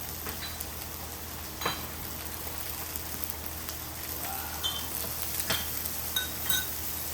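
Black pork sizzling on a hot cast-iron griddle, a steady frying hiss, with a few sharp clicks and clinks of tongs or tableware.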